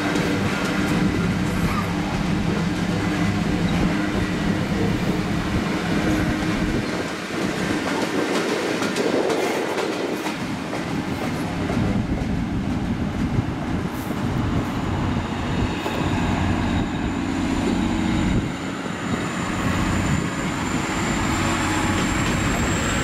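A convoy of Class 66 diesel locomotives passing, their EMD two-stroke V12 engines running, with wheels rumbling and clicking on the track. A thin high whine comes in about fifteen seconds in and rises slightly.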